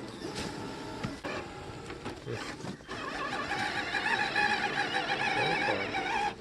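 Electric motor and gearbox of a radio-controlled scale truck whining, getting louder about three seconds in with a slightly wavering pitch, then stopping suddenly near the end.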